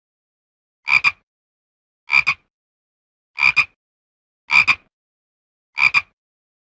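Frog croaking: five calls, each a quick double croak, repeated about every second and a quarter with silence between.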